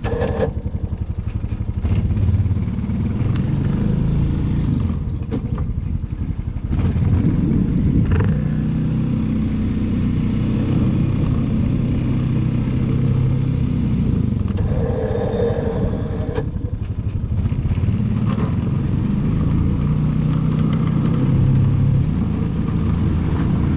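Snowblower's small gasoline engine running continuously, its pitch rising and falling as the load changes while it throws snow.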